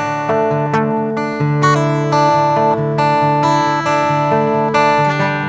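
Acoustic guitar strummed and picked, chords ringing on between the sung lines of the song.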